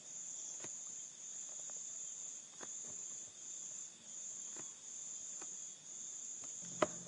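A cricket trilling steadily in the background, a high, slightly pulsing buzz, with a few faint sharp taps scattered through, the clearest near the end.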